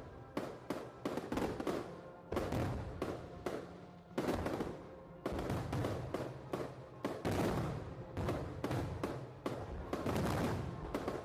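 Aerial fireworks shells bursting in quick, irregular succession, each bang trailing off, several close together at times, with music playing underneath.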